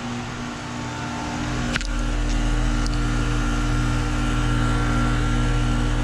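2021 Carrier Comfort 2.5-ton heat pump outdoor unit running in heat mode: a steady compressor hum with the outdoor fan. The compressor runs a bit louder than usual, which the owner puts down to the cold. There is one sharp click a little under two seconds in.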